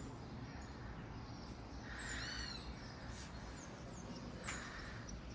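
Birds chirping: a call of a few quick arching notes about two seconds in and a short falling chirp about four and a half seconds in, over steady low background noise.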